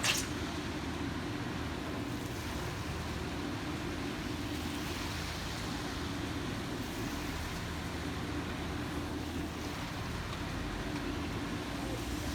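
Construction vehicle engine running steadily, with one short sharp knock right at the start.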